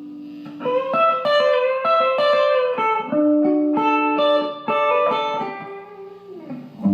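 Electric guitar playing a country pedal-steel-style lick: bent notes ringing over one another, starting about half a second in after a held note fades.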